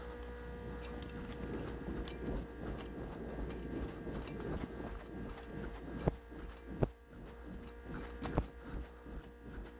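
Footsteps crunching irregularly over the ground, with a few sharper clicks about six, seven and eight seconds in, over a steady electrical hum.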